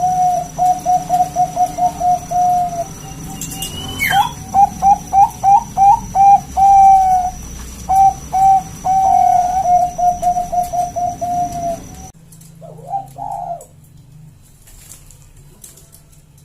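Bangkok-type perkutut (zebra dove) singing its cooing song: a rapid run of short staccato coos, then longer drawn-out coos, then another quick run. The song stops about twelve seconds in, and a single softer coo follows.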